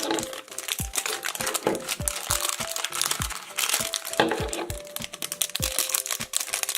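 Plastic wrapping of an LOL Surprise toy crinkling and crackling as it is unwrapped by hand, with many quick crackles, over light background music.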